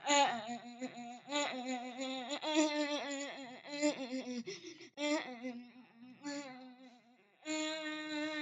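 A person humming a melody without words, the pitch wavering and gliding, then settling into one long steady note near the end.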